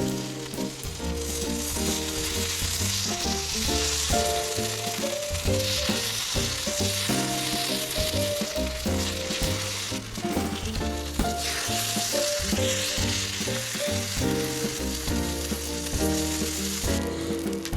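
Food sizzling and frying in a hot sandwich maker over a campfire, a steady hiss that starts about a second in and stops shortly before the end, over background music.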